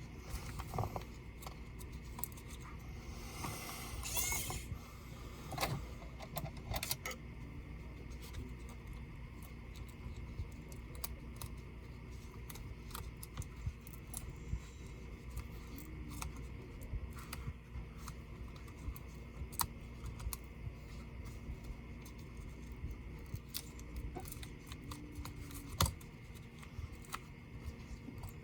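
Small clicks, taps and scrapes of laptop parts and small hand tools being handled during disassembly, with a longer scraping stretch about three to four seconds in.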